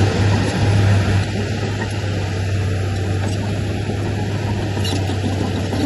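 Diesel engine of heavy earthmoving machinery running steadily: a constant low drone under a broad rumble, a little louder for about the first second.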